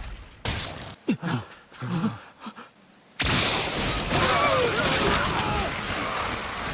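Anime fight sound effects: a few sharp hits with short strained vocal grunts, then from about three seconds a loud, sustained rushing burst with a wavering cry running through it.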